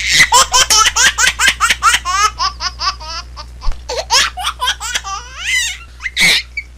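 Baby laughing hard in a quick string of high-pitched laughs. It eases briefly a little past three seconds in, starts again, and ends with one breathy gasp-like laugh.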